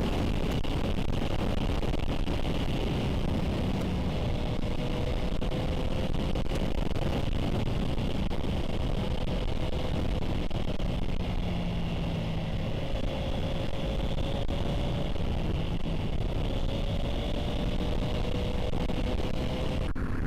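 Motorcycle engine running at a steady cruising pace under heavy wind rush, heard from a helmet-mounted camera; the engine note rises and falls gently.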